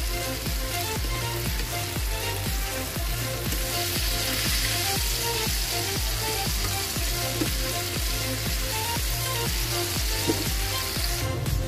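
Batter-coated chicken strips shallow-frying in hot oil on a low flame, sizzling steadily, with the sizzle growing louder about three and a half seconds in. Background music with a steady beat plays under it.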